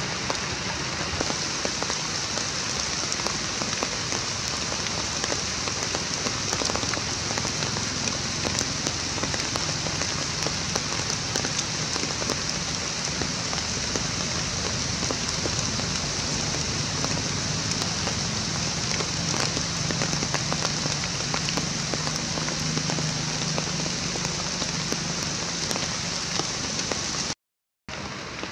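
Steady rain falling on the ground and leaves, an even hiss with a dense patter of fine drop ticks. The sound cuts out for a moment near the end.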